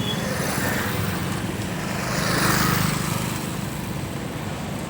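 A motor or engine running steadily with a pulsing low hum, swelling briefly about halfway through.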